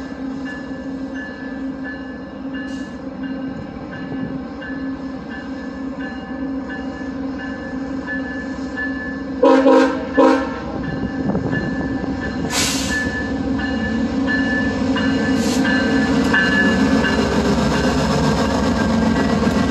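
Via Rail passenger train's diesel locomotive running with a steady drone that slowly grows louder as it comes closer. About halfway through, its horn gives two short blasts, followed a couple of seconds later by a brief hiss.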